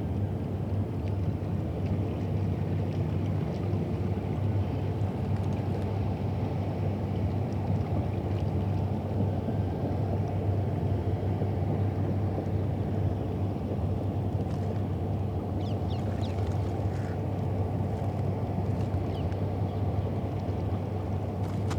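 Steady low engine hum and rumble of river and city background, unchanging throughout. Faint short high chirps or ticks come through in the last few seconds.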